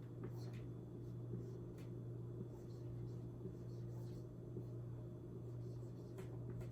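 Faint, irregular scratching strokes of someone writing by hand, over a steady low electrical hum.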